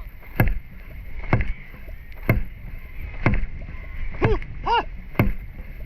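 Dragon boat drum beating a steady stroke rhythm, about one beat a second. Short shouted calls come in pairs from about four seconds in.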